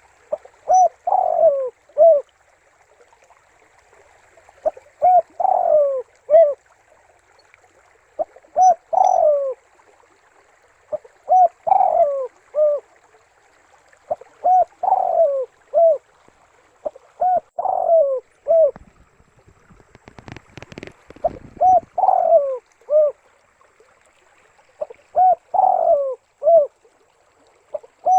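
Spotted dove cooing: a short phrase of about four coos repeated roughly every three to four seconds, about eight times. A brief muffled rustle or bump comes about twenty seconds in.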